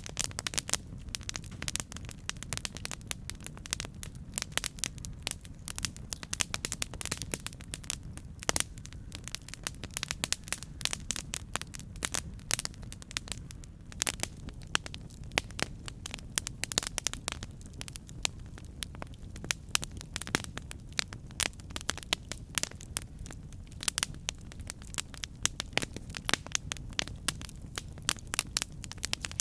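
Campfire burning: a steady low rumble of flame with dense, irregular crackles and pops from the burning wood, several a second.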